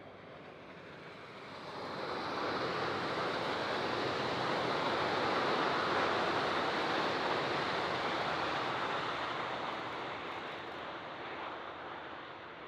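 Two coupled Alstom Coradia Liner B 85000 multiple units passing at speed: a rushing rumble that builds over the first two seconds, is loudest around the middle and slowly fades as the train draws away.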